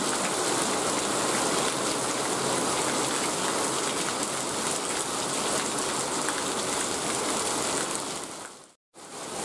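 Heavy rain falling steadily as an even hiss on the ground and surroundings. The sound fades and drops out for a moment near the end, then returns.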